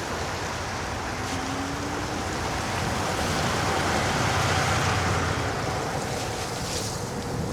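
Steady rushing noise of riding an electric scooter on a wet, slushy road: wind over the microphone and tyre spray, swelling to a louder low rumble in the middle, with a faint steady whine running underneath.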